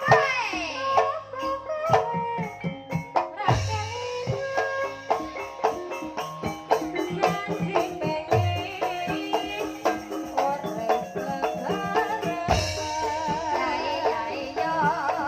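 Banyumas-style Javanese traditional music: an ensemble of struck pitched percussion with drum, and a wavering singing voice coming in over it near the end.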